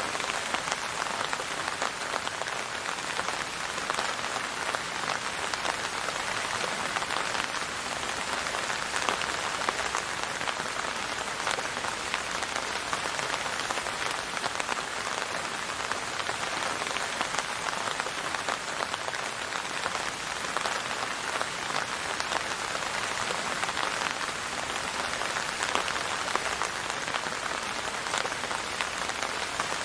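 Steady rain falling on a surface, a dense, even patter of drops with no let-up.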